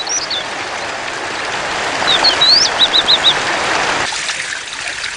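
Small songbird calling over the steady rush of running water: a few short chirps at the start, then about two seconds in a rising whistle followed by four quick short notes. The water noise drops off about four seconds in.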